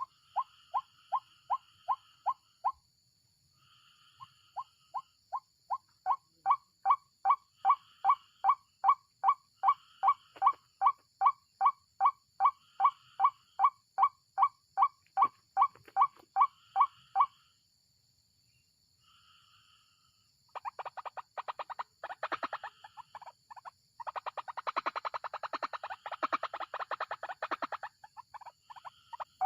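White-breasted waterhen calling: a long series of sharp, falling notes, about two to three a second, broken by a short pause. About two-thirds of the way through comes a stretch of rapid, dense chattering calls. A faint steady high whine lies underneath.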